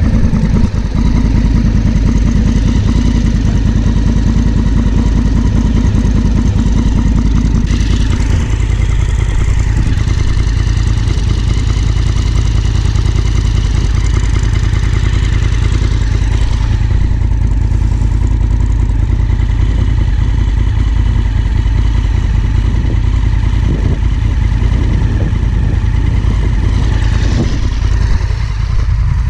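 Honda Africa Twin CRF1000L's 998 cc parallel-twin engine running steadily under way, heard through a helmet-mounted camera.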